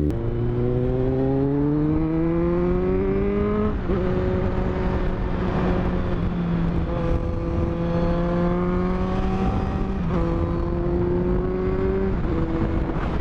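2022 Kawasaki Z900's inline-four engine under way, loud: the revs climb for about four seconds, drop sharply with an upshift, then hold nearly steady with smaller dips from further shifts later on, under a constant rush of wind noise.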